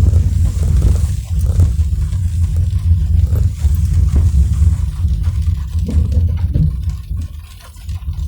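Car driving in the rain: a steady low road rumble with scattered light taps and a faint hiss, dropping quieter about seven seconds in.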